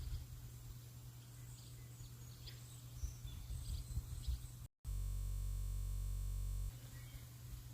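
Faint bird chirps over a low outdoor rumble. A little past halfway the sound drops out for an instant, then gives way to about two seconds of a flat, unchanging hum, a glitch in the audio, before the birds and rumble return.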